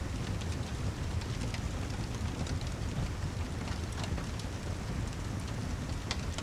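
Steady heavy rain over a deep low rumble, with scattered sharp ticks and crackles at irregular moments.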